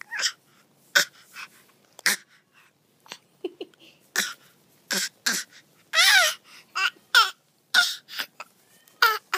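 A baby making noises: a string of short squeals, grunts and babbling sounds with pauses between them, the longest a wavering squeal about six seconds in.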